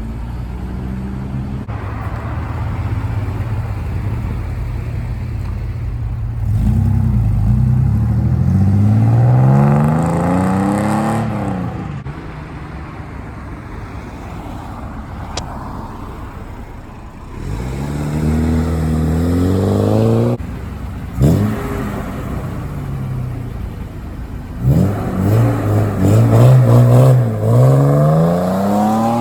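Cars pulling away one after another, each engine climbing in pitch as it accelerates: three main pull-aways, about a quarter of the way in, past halfway and near the end, over the steady running of engines close by.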